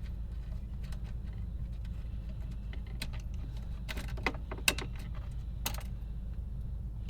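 Scattered light clicks and taps, with a few louder ones about four to five seconds in, over a steady low hum.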